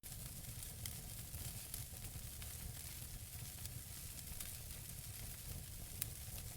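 Wood fire burning in a fireplace: a steady hiss with many small crackles from the burning logs, one sharper pop about six seconds in, over a low rumble.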